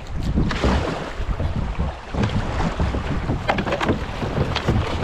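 Kayak running down a shallow creek: water rushing and splashing around the boat, with a few short sharp splashes in the second half, under a heavy rumble of wind buffeting the microphone.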